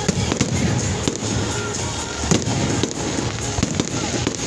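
Aerial fireworks display: a rapid series of sharp bangs from shells bursting overhead, the loudest a little past halfway, with music playing underneath.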